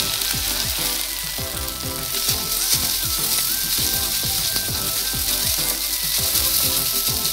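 Onions, green chillies and ginger-garlic paste sizzling in hot oil in a nonstick frying pan while being stirred with a wooden spatula. It is a steady frying hiss, with background music underneath.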